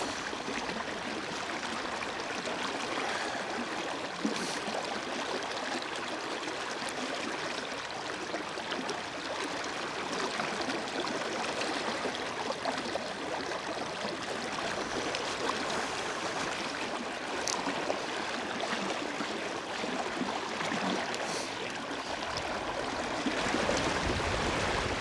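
River water running steadily, an even rushing hiss, with a few faint ticks. Low wind buffeting on the microphone creeps in near the end.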